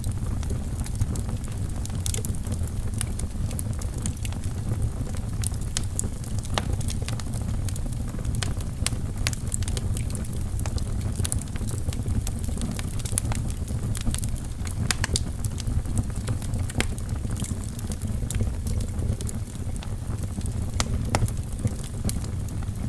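Wood fire burning in a fireplace: a steady low rumble of the flames with many sharp, irregular crackles and pops from the burning logs.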